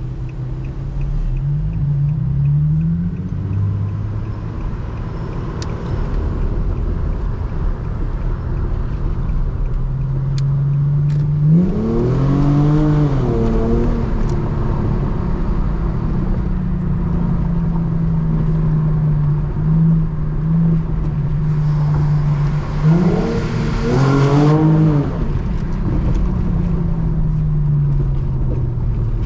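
Muffler-deleted Infiniti G35's VQ35HR V6 running under way, a steady exhaust drone with the revs climbing and dropping twice, about 12 and 23 seconds in, and a shorter rise near the start.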